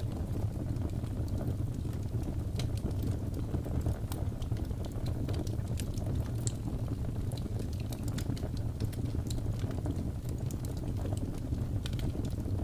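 Wood fire burning, with frequent small sharp crackles and pops scattered irregularly over a steady low rumble.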